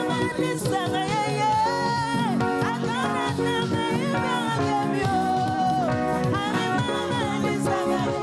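Live gospel praise music: a band playing a steady dance beat with singing over it, in the style of Nigerian cultural praise.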